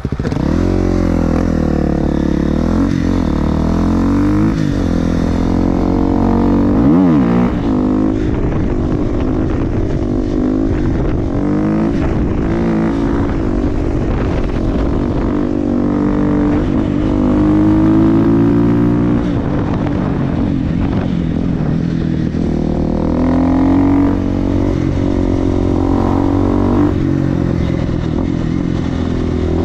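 Single-cylinder supermoto motorcycle with an FMF exhaust being ridden, its engine revving up and down over and over, pitch rising with throttle and dropping at each gear change or lift-off.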